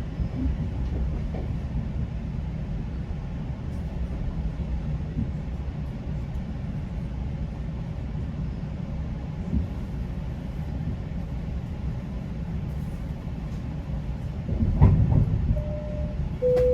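GO Transit commuter train rolling slowly into its terminal with a steady low rumble, and a louder clunk about fifteen seconds in. Near the end, a two-note falling chime sounds, the onboard signal before an arrival announcement.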